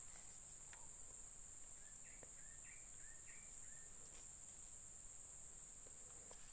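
Insects keep up a steady, faint, high-pitched trill. About two seconds in comes a quick run of half a dozen short chirps.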